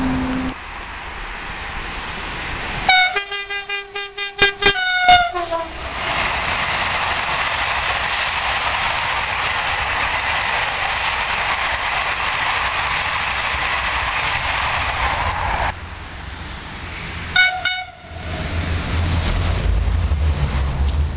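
Train horn sounding a quick series of short blasts, then a train passing with a steady rushing noise for about ten seconds, and one more short horn blast near the end.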